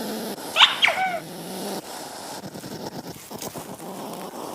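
An animal's short, high squeaks, two or three in quick succession, each swooping up and then down in pitch, about half a second in, over a steady hiss.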